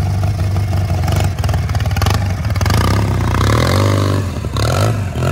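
Small engine of a rock-crawling riding lawn mower running under load, revving up and falling back a couple of times in the second half, with a few sharp knocks and clatter.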